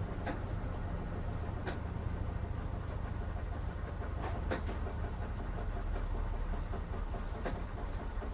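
Washing machine running a strong cycle: a steady low rumble, with a few short sharp knocks at uneven intervals.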